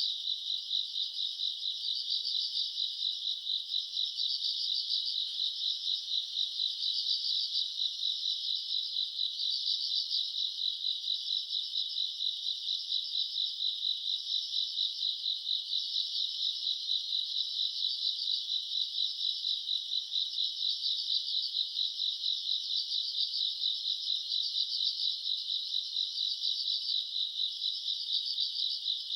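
Summer-night chorus of grass insects chirping: a dense, high, rapidly pulsing trill that never stops, with louder swells every couple of seconds.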